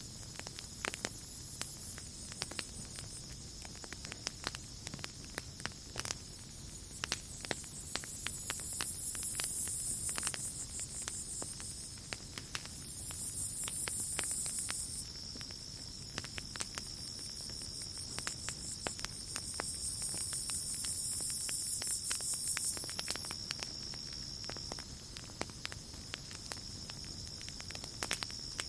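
Campfire crackling, with frequent irregular pops and snaps over a low rush of flame. Behind it, night insects trill: one steady high trill, joined now and then by louder, higher buzzing spells lasting two to four seconds each.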